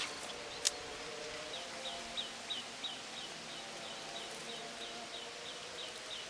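Repeated short high chirps from a small animal, about three a second, starting a second and a half in, over outdoor background noise. One sharp click comes under a second in.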